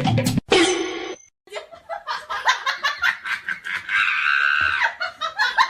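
A person laughing in quick rapid bursts, with a longer high-pitched stretch about four seconds in.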